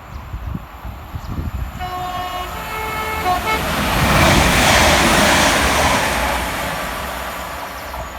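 Transport for Wales Class 197 diesel multiple unit sounding its horn on the approach, one note and then a lower one, then passing through the station without stopping: a rush of engine and wheel noise that swells to a peak about halfway through and fades away.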